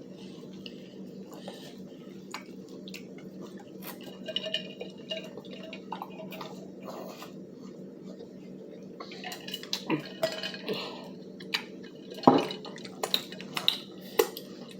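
Scattered clinks, taps and clatter of dishes and utensils at a meal table, with the loudest clicks about twelve seconds in, over a steady low hum.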